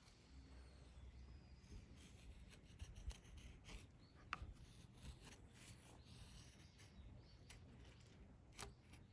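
Faint, irregular scraping and rubbing strokes with scattered light clicks.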